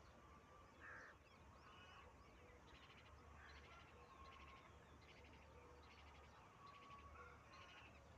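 Faint, scattered bird calls: short chirps and several quick rattling trills a few seconds apart, over a low steady hum.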